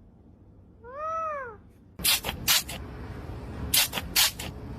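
A single meow, its pitch rising then falling, about a second in. From about two seconds in, over a louder background hiss, come short harsh noisy bursts in quick groups of two or three.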